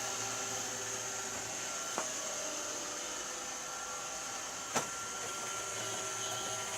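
Robot vacuum cleaner running steadily, a constant motor whine and suction hiss, with two short knocks: one about two seconds in and a louder one near five seconds.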